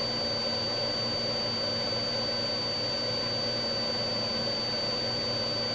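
Steady drone of a police aircraft's engine heard from inside the cabin, a constant hum with a thin high whine over it.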